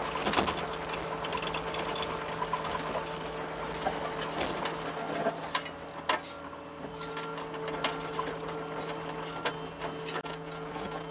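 John Deere 75 compact excavator running while digging, a steady engine and hydraulic hum with scattered clicks and knocks from the digging.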